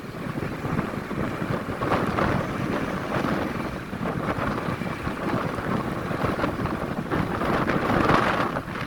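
Wind buffeting the microphone over the steady rumble of a truck driving along the road, with gusts swelling and fading.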